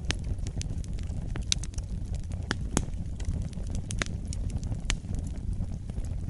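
Wood fire burning in a fireplace: a steady low rumble of flames with irregular crackles and occasional sharp pops.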